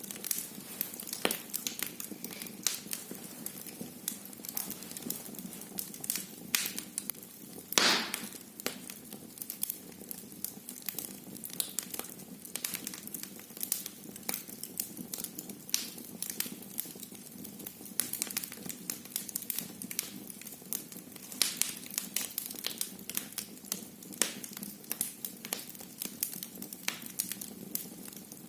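Wood fire burning in a fireplace, crackling with irregular sharp pops and snaps over a steady low rush. One louder pop comes about eight seconds in.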